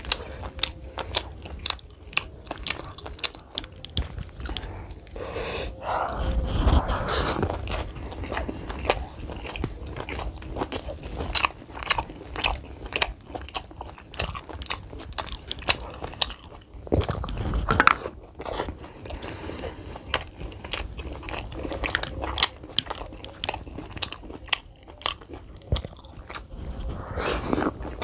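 A person chewing and biting with wet mouth smacks and clicks, eating momos dipped in chole (chickpea curry). There are a couple of louder mouthfuls about six and seventeen seconds in.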